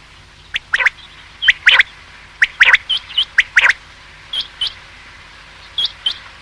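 Common quail calling: a run of short, sharp notes, mostly in quick pairs, loud through the first four seconds, then quieter paired notes twice near the end.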